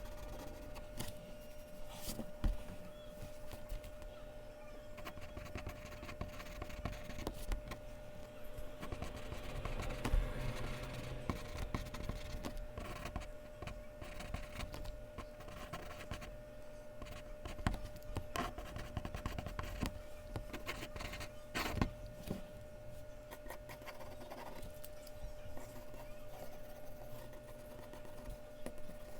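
Mechanical pencil scratching on Bristol paper in many short, irregular strokes, with a few sharper taps. A faint steady hum sits underneath.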